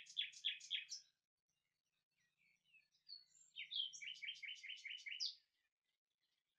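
A songbird singing: a quick run of about four repeated notes, each sweeping down in pitch, at the start, then after a pause a longer run of about eight such notes, ending on a higher note.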